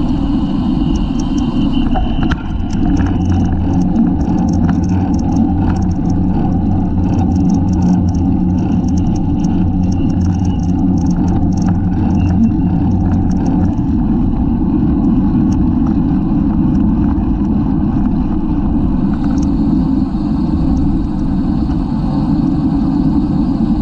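Loud wind rushing and buffeting over the microphone of a camera mounted on a bicycle racing at speed, with a steady low hum through the first half and scattered faint ticks.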